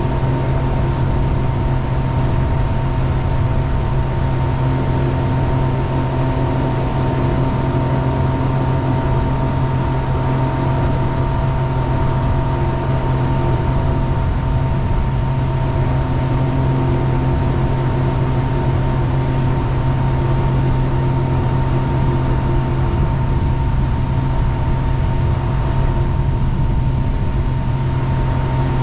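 Jet boat engine running at a steady, unchanging speed: a constant low drone with a few fixed higher tones over an even rush of noise.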